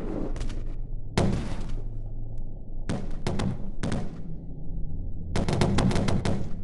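Five short bursts of rapid gunfire-like cracks over a steady low engine hum. The last burst, about five seconds in, is the longest.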